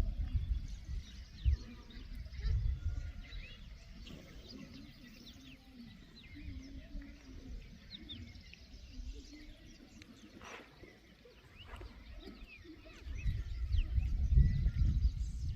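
Wild birds chirping and calling, many short overlapping chirps all through. A louder low rumble comes in the first few seconds and again in the last two or three seconds.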